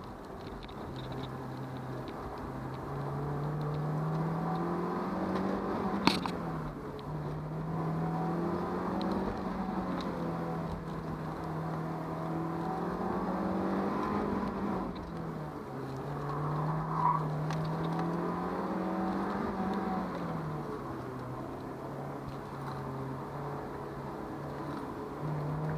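Honda S2000's four-cylinder engine heard from the driver's seat, its note climbing under acceleration and dropping back several times as it is driven hard and lifted between corners on an autocross course. A sharp knock sounds about six seconds in.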